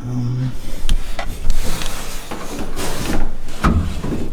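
Rubbing and scraping handling noises with a few sharp clicks and knocks, and a short low hum in the first half second.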